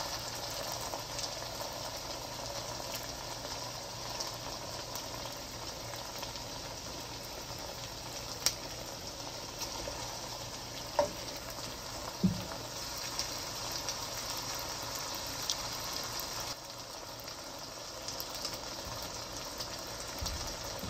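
Chicken pieces in gochujang chili paste and oil sizzling steadily in a nonstick wok over medium heat, with a few light clicks from utensils against the pan.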